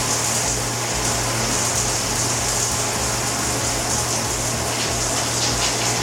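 Shower running: a steady hiss of water spray, with a low hum under it.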